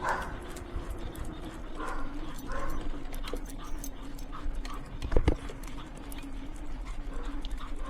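Two sled dogs trotting on pavement while pulling a wheeled street sled: steady footfalls and a constant rolling hum, with a louder knock about five seconds in.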